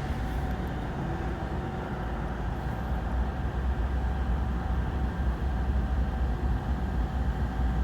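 Diesel locomotives at the head of a loaded coal train rumbling low and steady, with a faint steady whine above, slowly growing a little louder.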